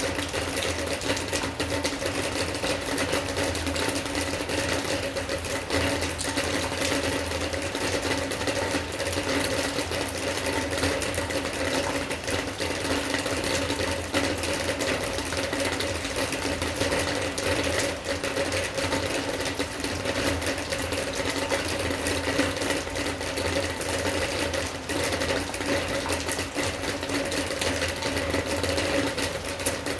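Steady rain pattering densely on a hard surface, with a constant low hum running underneath it.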